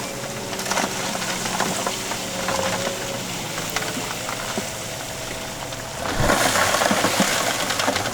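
Heavy machinery engine running under a dense crunching and grinding of stone as rock is moved, growing louder about six seconds in.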